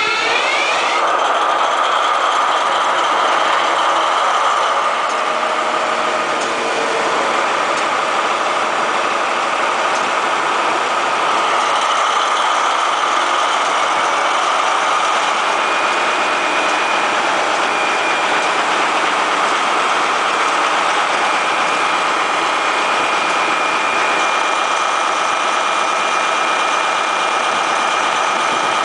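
InterCity 125 (HST) power car diesel engine just after start-up: its rising pitch levels off about a second in, and it settles into a steady idle with a high, even whine.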